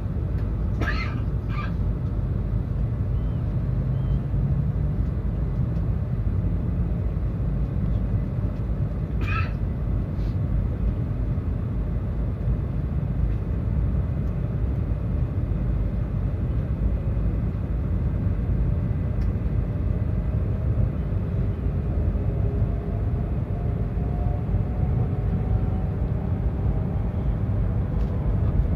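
Tohoku Shinkansen Yamabiko train running, with a steady low rumble throughout. From about two-thirds of the way in, a faint whine slowly rises in pitch as the train speeds up.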